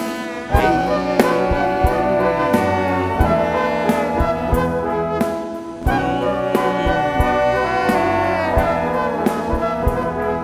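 Live band music led by brass horns playing sustained chords over sharp percussive hits. There are short breaks about half a second in and just before six seconds, each followed by a strong re-entry.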